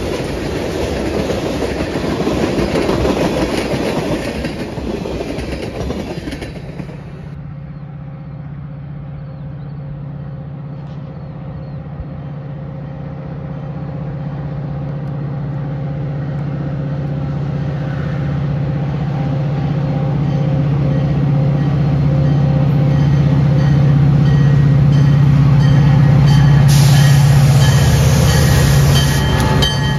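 A freight train's tank cars roll past with a rumbling clatter of wheels on rails. After a cut about seven seconds in, a Metra commuter train's diesel locomotive approaches with a steady engine drone that grows louder as it nears, and wheel noise rises near the end.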